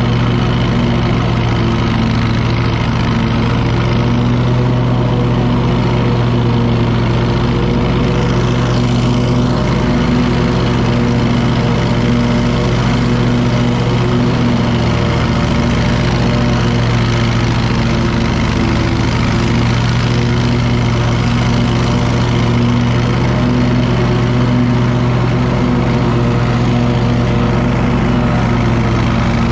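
Wright commercial lawn mower's engine running steadily at a constant speed, with an unchanging loud drone.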